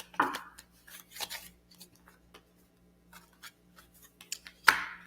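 Scattered rustles and small clicks of tarot cards being handled, with a louder rustle near the end.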